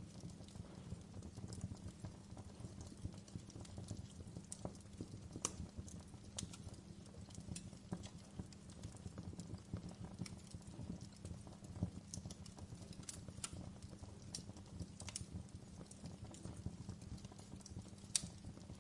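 Wood fire in a fireplace crackling: irregular sharp pops and snaps, a few louder ones, over a low steady rumble of the burning fire.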